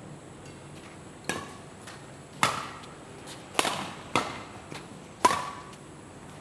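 Badminton rally: rackets striking the shuttlecock back and forth, about five sharp hits roughly a second apart, some louder than others.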